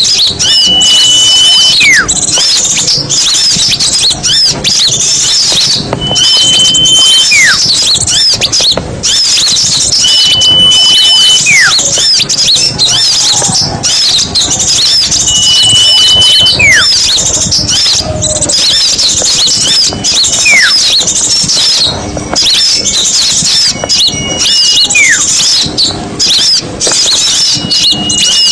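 Bird-lure recording of small songbirds: a dense, busy chorus of high, rapid chirps and twitters throughout, with a clear whistle repeating about every four to five seconds, a held high note followed by a short falling slur.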